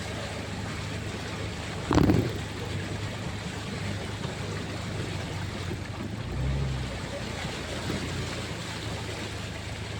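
Motorcycle being ridden in the rain: a steady wash of wind and water noise over a low engine hum, with a short loud burst about two seconds in and a brief low tone a little after six seconds.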